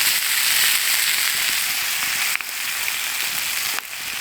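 Bacon frying in a pan, a steady sizzle that drops a step in level twice, about two and a half and about four seconds in.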